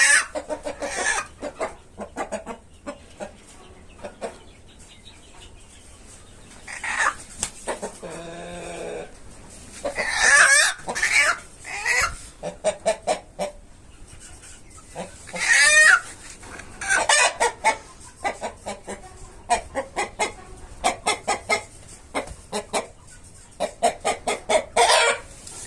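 Australorp chickens clucking in quick runs, with a few louder, drawn-out calls among them.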